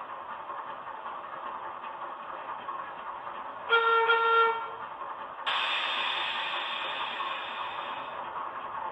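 Sound-decoder recording of a Class 08 diesel shunter played through a model locomotive's small speaker: the engine idling steadily, then a horn blast of about a second, then a burst of air hiss that fades away, typical of the brakes being released.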